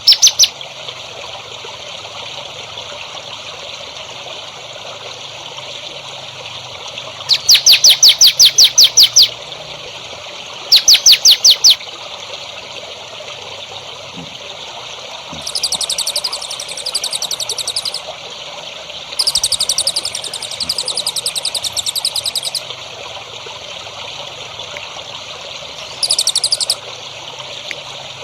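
A caged songbird singing in bursts of fast, evenly repeated high trilled notes, the two loudest about a second and a half apart, followed by softer chattering phrases, over the steady trickle of running water.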